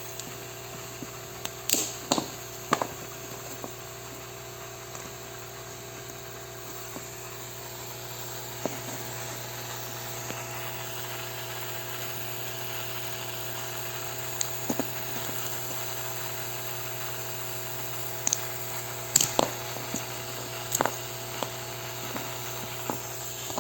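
A steady mechanical hum with irregular sharp clunks scattered through it, several close together near the start and a louder cluster about nineteen seconds in.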